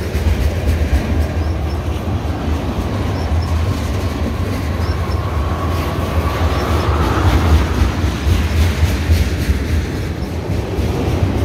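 Freight train tank cars rolling past: a steady rumble of steel wheels on rail with clicking over the rail joints. A faint wheel squeal rises slightly around the middle.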